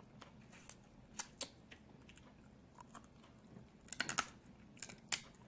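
Close-up eating of snow crab legs: scattered sharp clicks and cracks of shell being broken and picked apart, with chewing. A quick cluster of cracks comes about four seconds in and another just after five.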